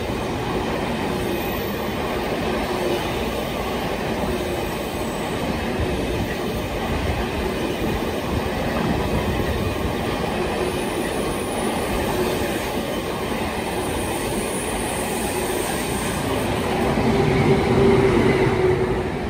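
ICE 1 high-speed train (class 401) passing slowly, a steady rumble of wheels on rail that grows louder near the end as its power car goes by close.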